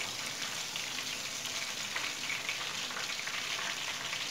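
Egg-and-flour-coated eggplant slices frying in hot oil in a pan: a steady sizzle with fine crackling.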